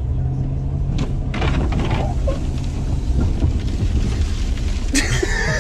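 Low, steady rumble of a car on the move, heard through an in-car microphone. There is a click about a second in and a sharper hissing sound near the end.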